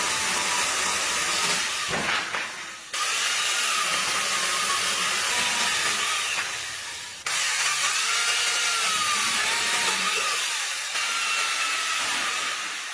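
A steady, loud hiss with faint wavering whistle-like tones over it. It comes in three stretches that break off abruptly about three and seven seconds in.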